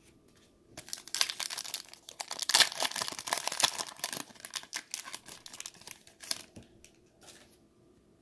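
Foil wrapper of a Mosaic football card pack being torn open and crinkled: a dense run of crackling starting about a second in, thinning out after about six seconds.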